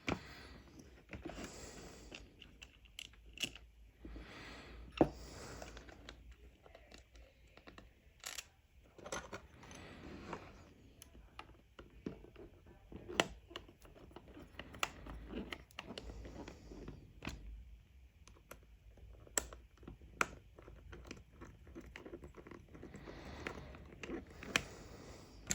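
Handling noise from small parts being worked by hand: scattered sharp clicks and taps with soft rustling in between, the loudest click about five seconds in.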